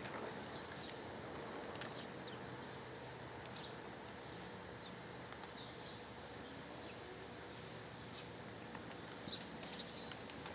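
Small birds chirping: scattered short, high chirps over a steady background hiss.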